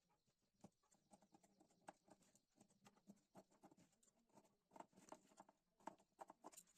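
Faint, irregular rustling and small clicks of cloth being handled during cutting.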